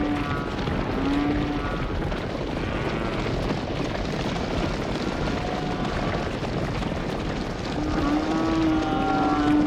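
Cattle mooing: two short moos near the start and a long, drawn-out moo near the end, over a steady rumbling background noise.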